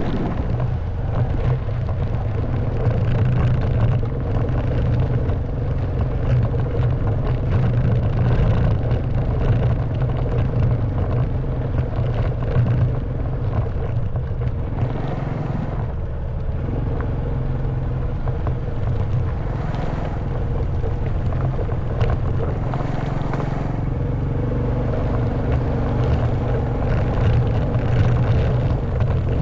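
Honda Wave 110cc single-cylinder four-stroke motorbike engine running under way, its note rising and falling slightly as the throttle changes.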